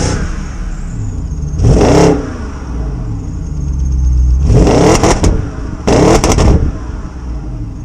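2005 BMW 645Ci's 4.4-litre V8 running just after a cold start, revved three times, each rev rising in pitch and dropping back to idle.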